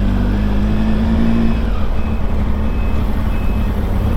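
A Triumph Tiger's three-cylinder engine running steadily at low speed, with low rumble under it. Short high beeps repeat about every three quarters of a second in the second half.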